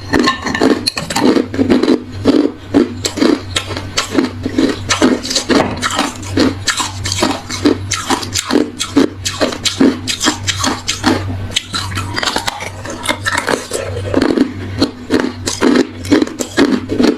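Hard ice being chewed close to the microphone: a steady run of loud, crunchy bites and crunches, several a second, over a steady low hum.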